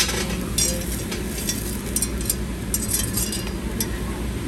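Tableware clinking at a dining table: a scatter of short light clicks of cutlery, glasses and dishes over a steady low background hum.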